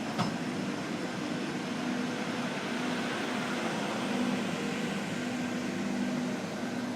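Steady electrical hum and hiss of a CityRail electric train, with one sharp click about a quarter second in.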